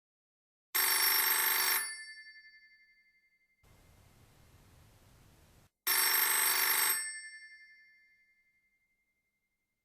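Telephone bell ringing twice, about five seconds apart: each ring is a rapid bell trill lasting about a second, then dies away slowly.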